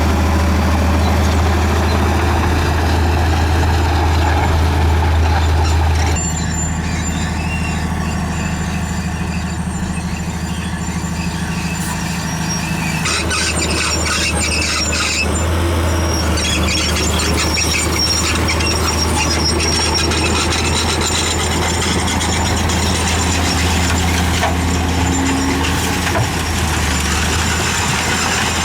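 Crawler bulldozer's diesel engine running heavily, with high-pitched squealing from its steel tracks as it moves. The engine note drops about six seconds in.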